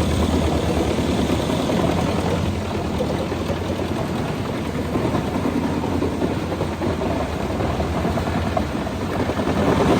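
Lippel Dragon 1200 forestry wood chipper running steadily under load, chipping eucalyptus logs: a constant deep drone under a dense, continuous rattle and crackle.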